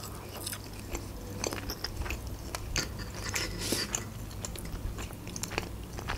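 Close-up mouth sounds of a person chewing a fried potato cutlet: soft wet chewing with many small crisp clicks.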